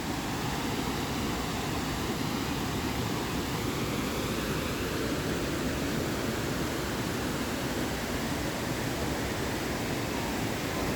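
Mo Paeng Waterfall: a steady, even rush of falling water.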